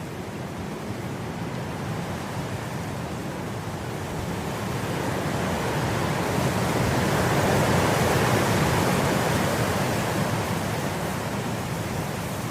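Wind blowing through grass: a gust swells over several seconds to its loudest a little past the middle, then eases off.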